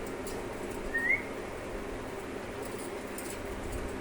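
Pet parrot giving one short, rising whistled chirp about a second in, over a steady low hum.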